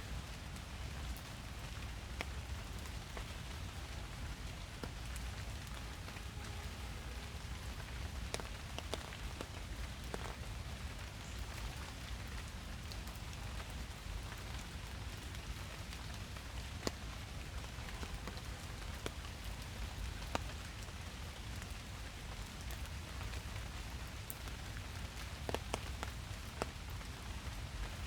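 Steady rain falling in a forest: an even hiss of rainfall with scattered sharp drips and taps of individual drops.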